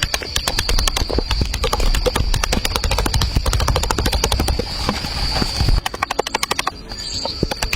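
Quick series of sharp clicks and knocks, several a second, coming fastest and most evenly near the end, over a steady high insect buzz.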